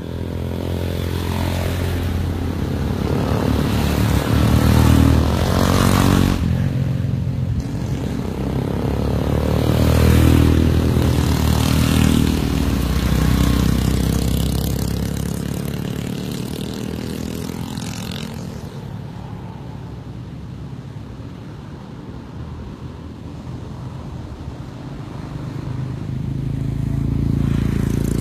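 Motorcycle engines running and revving, the sound swelling and fading several times as bikes pass, loudest about a third of the way in and again near the end.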